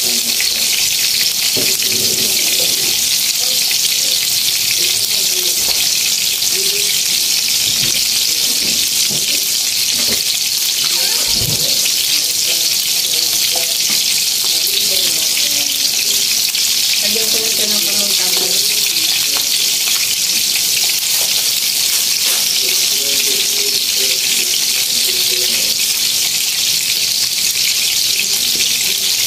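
Meat and garlic cooking in a brown sauce in a wok over a gas burner, sizzling and bubbling with a steady hiss.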